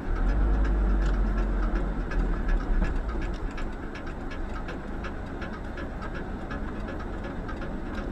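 Steady noise of a moving vehicle on the road, with a heavy low rumble for the first three seconds or so and faint regular ticking throughout.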